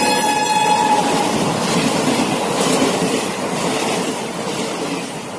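Passenger train passing at speed close by. Its horn sounds, dropping slightly in pitch and ending about a second in, and then the rush and clatter of the coaches going past fades away.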